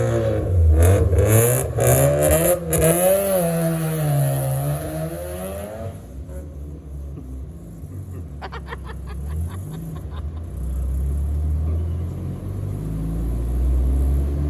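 Rotary car engine revving up and down for a few seconds, then falling back to a lower rumble, with a short run of rapid crackles partway through.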